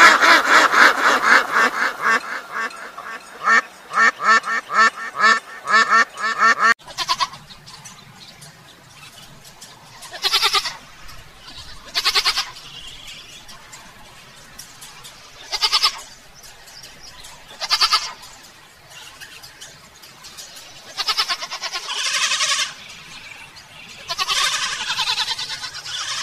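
Mallard ducks quacking in a dense, rapid run of calls that cuts off abruptly about seven seconds in. Then a young goat kid bleats about six times, a couple of seconds apart, the last two bleats longer.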